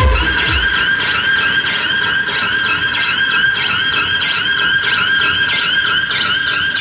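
Treble test tone played through a DJ sound system's speakers: a steady high whistle with quick rising-and-falling chirps repeating above it several times a second, and almost no bass.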